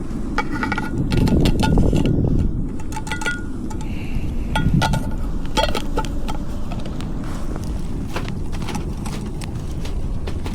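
Light metallic clinks and taps, repeated irregularly as metal items are handled, over a steady low rumble.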